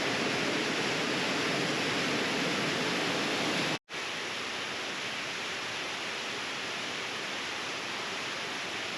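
Waterfall rushing: a steady noise of falling water. It breaks off sharply about four seconds in and comes back a little quieter.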